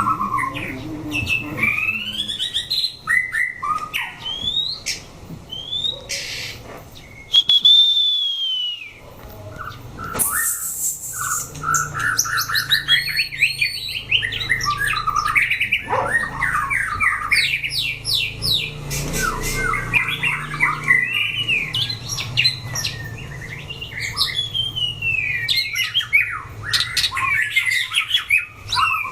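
White-rumped shamas singing against one another in a competitive test, fast varied phrases of rising and falling whistles and chattering notes that overlap almost without pause.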